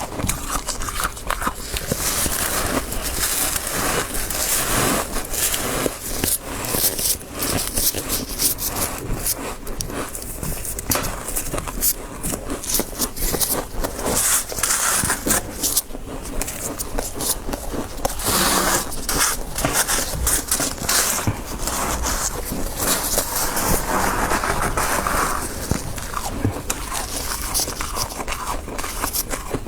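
Close-miked biting and chewing of freezer frost: dense crackling crunches with some scraping.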